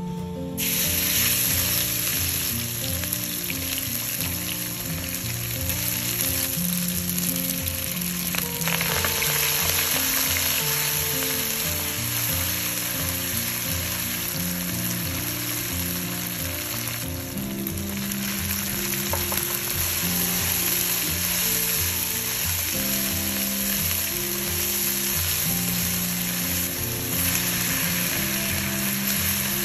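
Chopped aromatics sizzling in hot oil in a wok and stirred with a spatula, the sizzle starting about half a second in, over background music.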